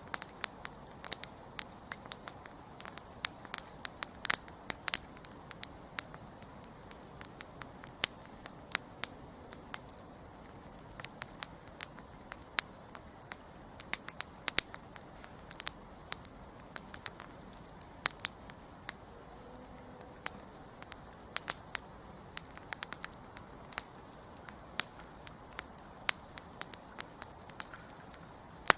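Wood campfire burning with irregular sharp crackles and pops over a steady low hiss of the flames.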